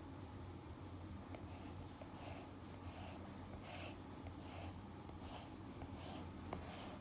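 Pen strokes scratching on paper, a steady back-and-forth of about eight short strokes spaced under a second apart, starting a second or so in, over a low steady hum.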